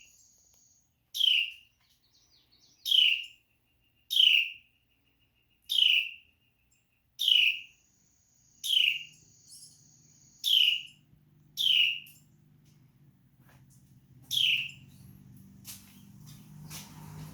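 A bird's short, sharp calls, each sliding down in pitch, repeated about nine times at intervals of one to two seconds, with a longer gap before the last one.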